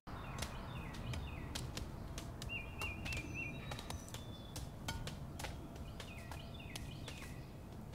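Faint outdoor ambience: small birds chirping in short repeated notes, with a low steady rumble and scattered light clicks.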